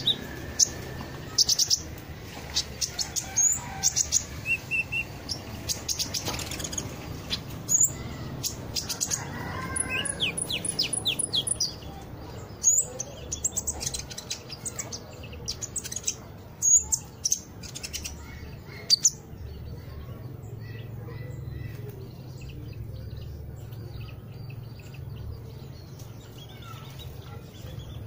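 Small wild-caught songbird calling: many short, sharp, high chirps and brief rapid trills, dense for the first two-thirds and then fainter and sparser. The bird is calling actively soon after capture.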